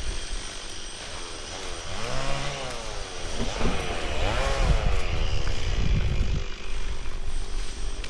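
A motor engine running, its pitch rising and falling twice in the middle, with wind buffeting the microphone.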